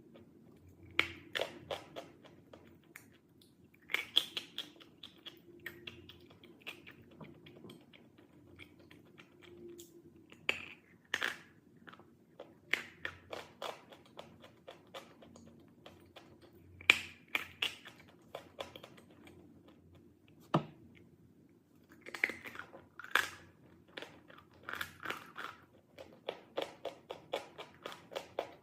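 Close-up biting and chewing of chalk: sharp crunches come in clusters with short pauses between them, a few single loud bites standing out.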